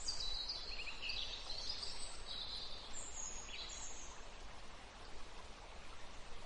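Background birds chirping and calling over a steady outdoor hiss. The high, quick calls come in the first few seconds and fade out after about four seconds.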